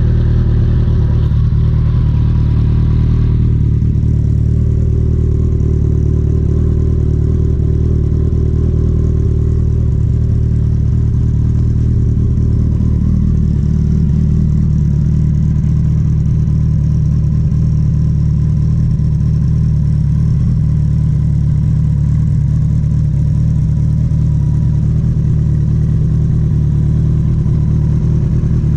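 Kawasaki ZX-14R's inline-four engine idling steadily.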